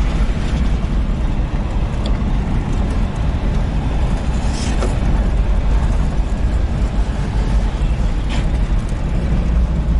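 4x4 jeep driving on a forest road, heard from on board: a steady low engine and road rumble, with a couple of brief higher-pitched noises about halfway through and near the end.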